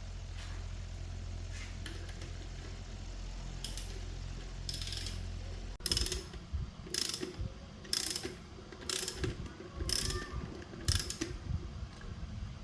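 A steady low hum, then from about halfway a hand tool worked in even, sharp mechanical strokes, roughly one a second, as part of the compressor repair.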